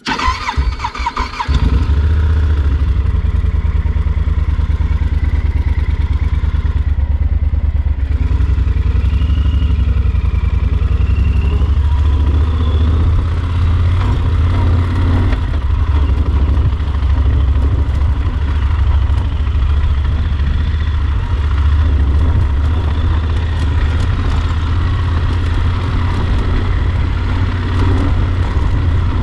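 Yamaha Super Ténéré XT1200 parallel-twin motorcycle engine starting: a second or so of uneven cranking and catching, then it runs on loud and steady.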